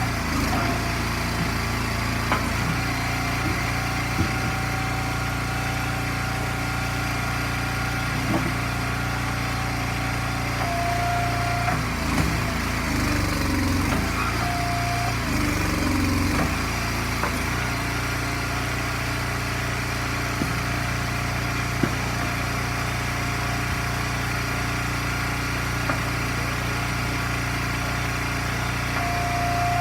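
Small gasoline engine of a hydraulic log splitter running steadily. About halfway through its pitch dips and wavers a few times as it takes load. There are a few short whines and light knocks.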